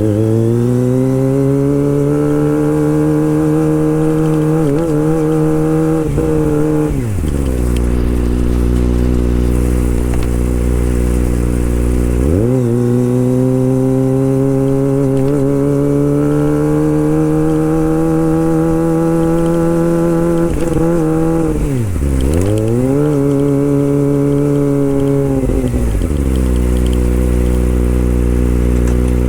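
Kawasaki Ninja ZX25R's 250 cc inline-four engine being warmed up and revved, held steadily at high revs. It twice drops back to a low idle for several seconds before revving up again, with a quick dip and climb in between.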